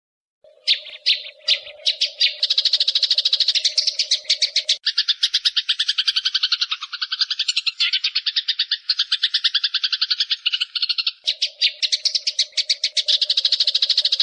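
Eurasian tree sparrows (burung gereja) chattering in a fight: a dense run of rapid, harsh chirps, about ten a second, starting about half a second in and going on without a break.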